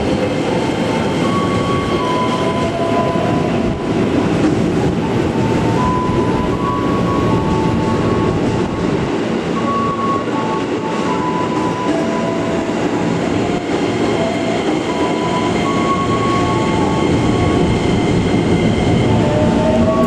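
Electric commuter train running through the station: a loud steady rumble, with short high squealing tones that come and go throughout.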